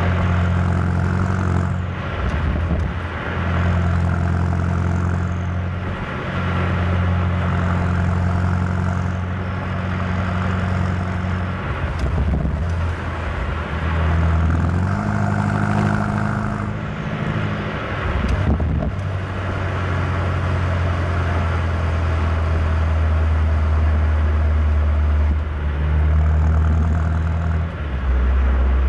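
BMW M8 Competition's twin-turbo V8 running under light load while driving, a low steady drone whose pitch shifts and briefly breaks several times, over tyre and road noise.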